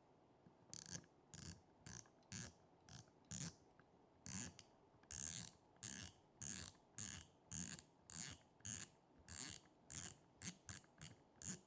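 Faint, quick repeated strokes, about two a second, from hand work on a spinning reel.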